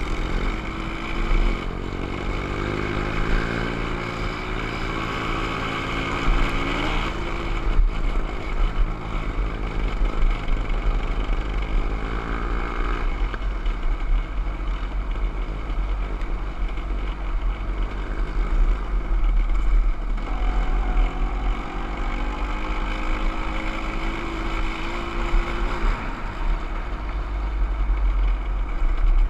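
Motorcycle engine running under way. Its pitch climbs as it accelerates, changes about seven seconds in, and climbs again in the second half.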